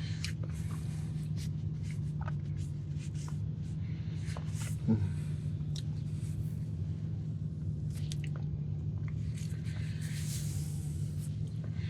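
Soft, scattered wet clicks and light rustles as a person cleans chocolate off his face and mouth after eating a cookie, over a steady low hum.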